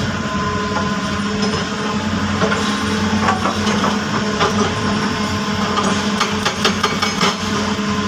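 Heavy earthmoving machine's diesel engine running steadily under load, with a run of clanks and knocks from about halfway through.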